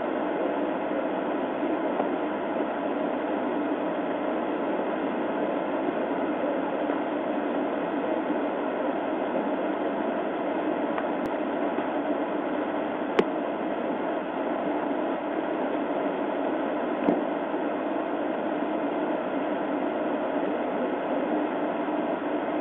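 Steady hiss and hum of a parked patrol car idling, heard through a dashcam's recording, with two short clicks about 13 and 17 seconds in.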